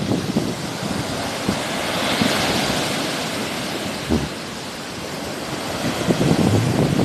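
Sea waves washing onto the shore, one wave's hiss swelling about two seconds in and then fading, with wind buffeting the microphone near the start and end.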